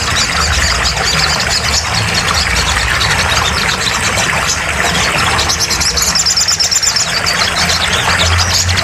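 Small songbird calls in rapid high chirps and trills, most dense a little past the middle, over a steady low hum.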